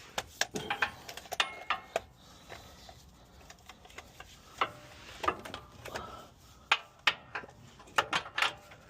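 Scattered metallic clicks and clanks of hand tools and a socket being handled and fitted against steel suspension parts, a few with brief ringing.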